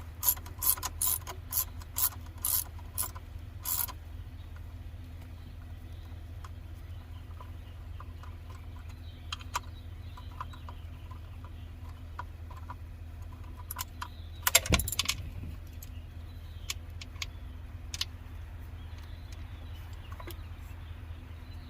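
Aerosol starter fluid sprayed into a carburetor in a quick run of short hissing squirts, about three a second, for the first few seconds. After that comes a low steady hum with a few small clicks, and one louder burst of noise about halfway through.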